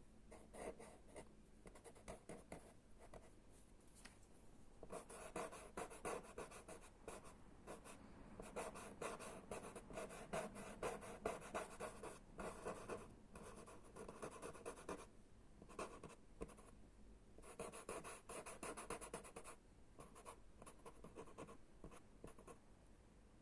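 Blending and stroking chalk pastel on pastelmat card: soft, rapid scratchy rubbing in bursts of a few seconds with short pauses between.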